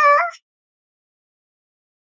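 The end of a high, steady-pitched cat meow that stops suddenly about half a second in, followed by dead silence.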